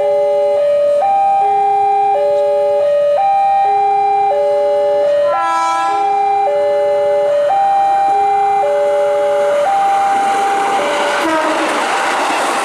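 Railway level-crossing warning alarm repeating a three-note electronic tone pattern, with a short toot about halfway through. From about ten seconds in, a passing train's rumble and wheel noise swell up and drown out the alarm.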